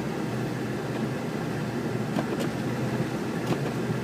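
Steady road and engine noise heard from inside a moving car's cabin, with a few faint ticks.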